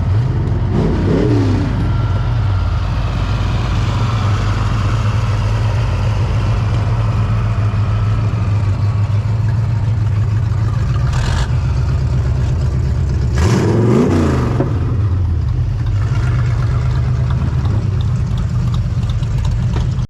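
A vehicle engine running steadily at a low pitch, twice rising and falling in pitch as if revved: about a second in, and again around fourteen seconds. There is a brief knock shortly before the second rise.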